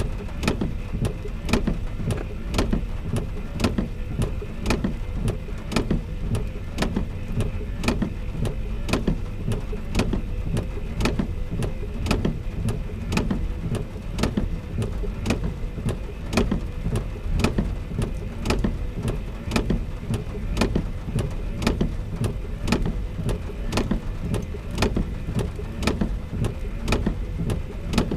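A sharp, even ticking, about two ticks a second, over a steady low rumble.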